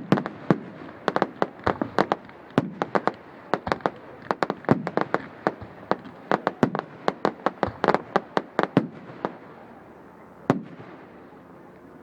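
Fireworks going off in a rapid volley of sharp bangs, several a second. The bangs thin out about nine seconds in, with one last lone bang a little after ten seconds.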